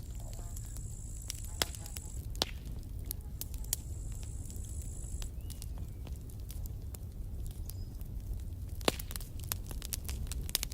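Wood campfire crackling, with irregular sharp pops over a steady low rumble of the flames. A thin, high-pitched hiss comes twice in the first five seconds.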